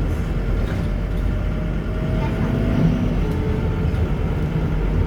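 Scania K230UB city bus's five-cylinder diesel engine running steadily as the bus drives, with a hum whose pitch drifts gently.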